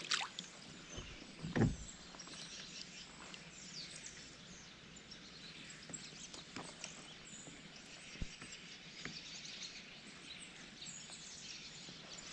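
Quiet outdoor ambience with faint, scattered chirps of small birds, and a single low thump about a second and a half in.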